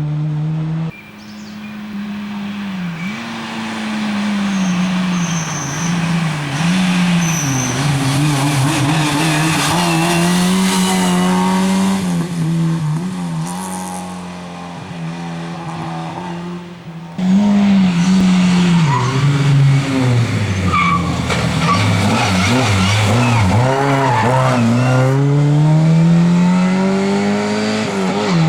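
Lada 2107 rally car at full rally pace, its engine revving up and falling back again and again through gear changes and corners, with tyres skidding and squealing. The sound cuts abruptly about a second in and again about seventeen seconds in.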